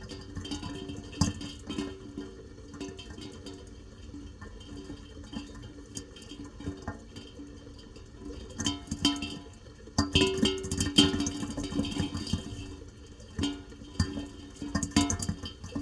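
Rain dripping and splashing, a dense run of sharp plinking drops over a few steady tones. It grows louder and busier about ten seconds in.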